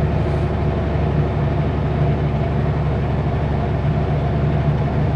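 Kenworth W900L semi truck's diesel engine running steadily under way, an even low drone with road noise.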